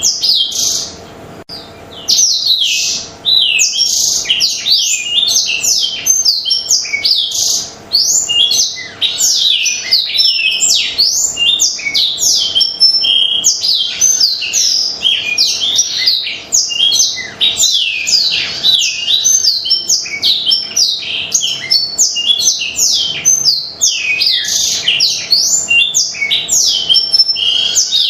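Black-throated canary singing continuously: a fast, unbroken stream of high twittering, sliding notes, with a brief pause about a second in.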